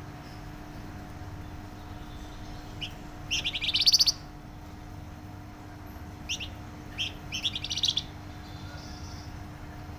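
Flamboyan songbird singing loud, rapid trilled phrases: a short note about three seconds in, then a fast trill lasting nearly a second, then two short notes and another fast trill near eight seconds. A steady low hum runs underneath.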